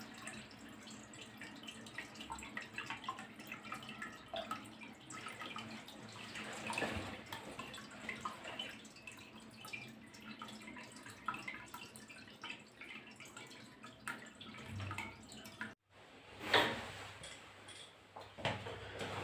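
Faint water dripping and trickling, many small irregular plinks over a low wash. Near the end, after a brief drop-out, a louder knock.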